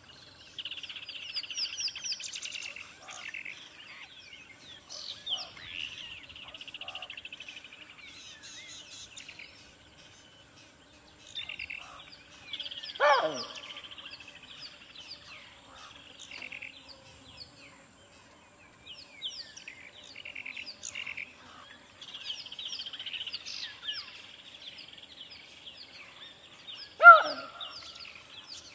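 Several birds chirping and twittering, with rapid high trills that come and go. A louder, short call falls steeply in pitch twice, about halfway through and near the end.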